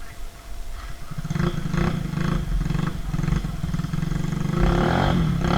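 Trail motorcycle engine revving hard at high revs, coming in about a second in and getting louder near the end.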